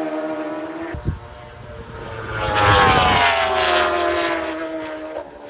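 A racing superbike passes at speed. Its engine note swells to its loudest about three seconds in, drops in pitch as it goes by, and fades away. Before it, the note of another bike dies away, and there is a brief thump about a second in.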